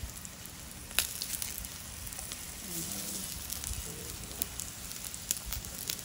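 Eggplant slices sizzling in hot oil in a nonstick frying pan, with scattered spitting pops and a sharp click about a second in.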